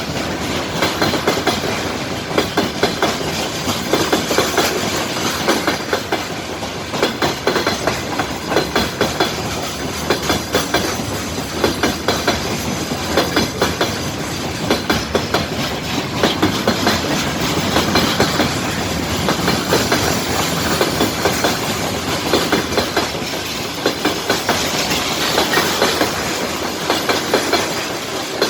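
Freight train wagons rolling past, their wheels clicking over the rail joints in quick repeated clusters over a continuous rumble.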